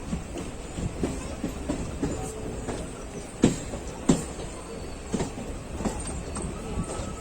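Express train's passenger coach running along the track, heard from aboard: a steady rumble with irregular clacks of the wheels over rail joints, two sharper knocks about three and a half and four seconds in.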